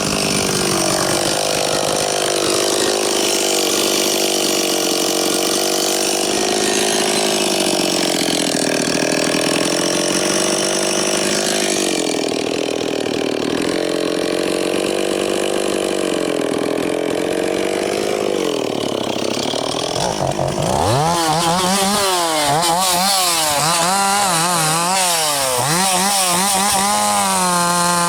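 Two-stroke chainsaw at full throttle cutting through a log, its pitch sagging and recovering under the load. About twenty seconds in it drops briefly, then the engine speed swings rapidly up and down.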